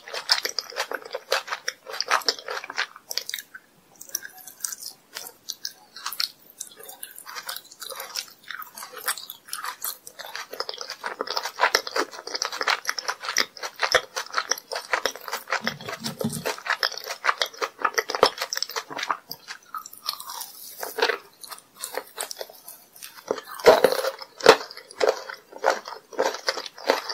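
Close-miked biting and chewing of sugar-crusted jelly candy, homemade kohakuto, with the crisp sugar shell crackling and soft, sticky chewing. A few louder crunchy bites come near the end, as a sugar-coated pink marshmallow candy is bitten.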